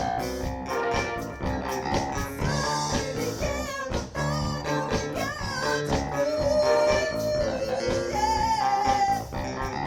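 Live soul-funk band playing with drums, bass, guitar and keyboard, with held, bending melody notes from a singer or the horns over the groove.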